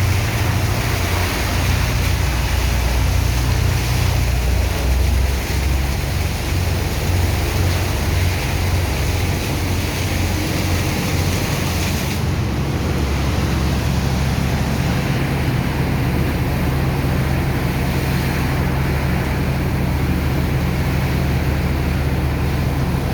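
Engine of a sand-dredging pump running steadily under load, with a rushing wash of water and sand slurry over its low hum. The hiss eases slightly about halfway through.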